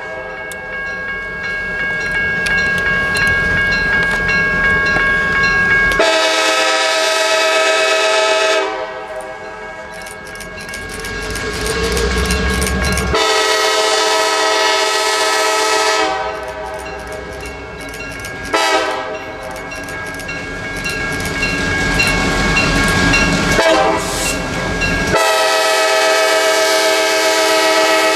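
Train horn of a passing diesel locomotive, a Nathan P5 five-chime horn, sounding a series of long blasts. Under the horn there is a low locomotive rumble and the clickety-clack of wheels on rail joints.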